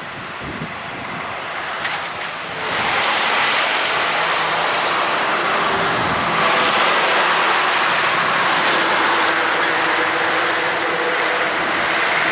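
Passenger train running past on the line, its noise swelling suddenly about three seconds in, then staying loud and steady.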